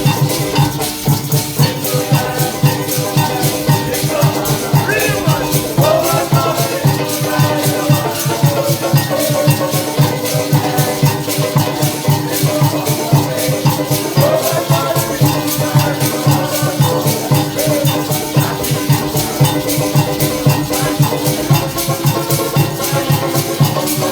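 Parang band playing live, with maracas shaking a fast, even rhythm over pitched instruments.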